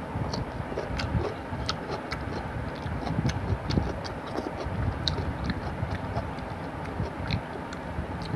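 Close-up eating sounds: wet chewing and lip smacks from a mouthful of rice and fish curry, many short irregular clicks, over a steady low background rumble.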